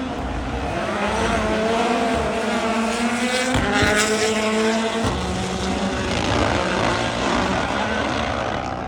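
Turbocharged rally car engine at full throttle on a special stage, its pitch rising through the revs with a short break about three and a half seconds in, like a gear change.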